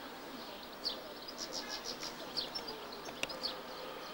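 Birds chirping in short, high, repeated calls over a low outdoor hiss, with one sharp click about three seconds in.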